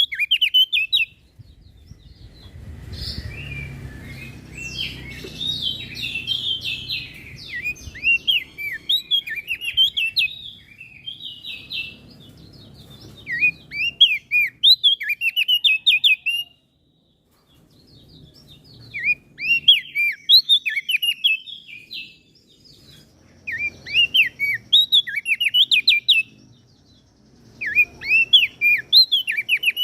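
Crested dark-eye (opior jambul) singing in repeated bursts of quick, high chirping notes, each burst a few seconds long with short pauses between. A low rumble runs under the song in the first third. The sound drops out for about a second just past halfway.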